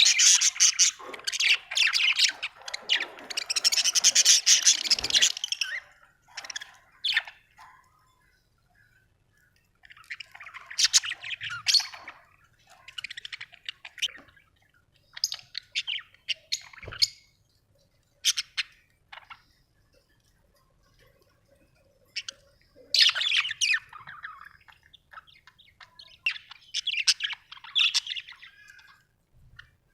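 Budgerigars chattering and chirping in bursts, with quiet gaps of a second or more between them. The longest and loudest burst of busy warbling comes at the start. There is a single sharp tap about halfway through.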